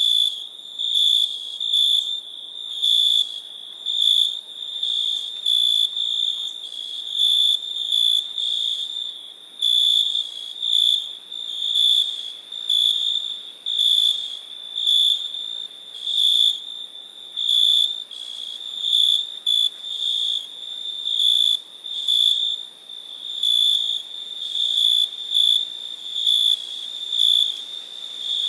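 Cricket chirping at a single high pitch, in short bursts about once a second.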